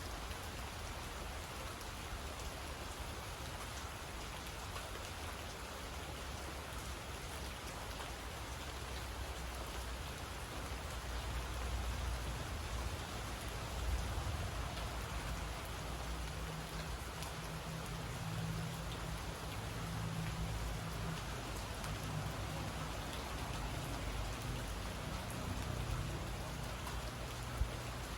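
Steady rain falling, with a low rumble underneath that swells through the middle and later part.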